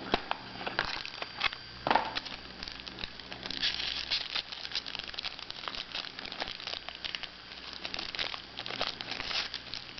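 A trading card pack's wrapper being torn open and crinkled by hand: a run of irregular crackles and rustles, with a sharper tear about two seconds in.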